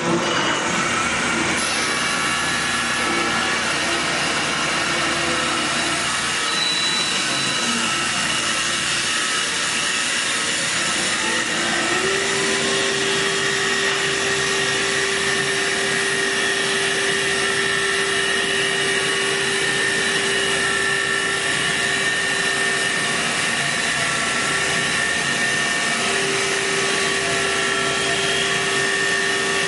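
Hager HD300A-CNC computer-controlled wood lathe running and machining a wooden workpiece with a steady whirring, cutting noise. A steady hum joins in about twelve seconds in.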